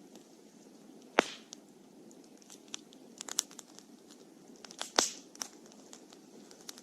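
Wood campfire burning: scattered small crackles, with two sharp loud pops about a second in and about five seconds in, over a low steady hiss.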